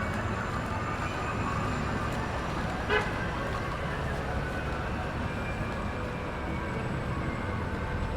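Busy city street traffic noise, steady throughout, with one short sharp beep, likely a car horn toot, about three seconds in.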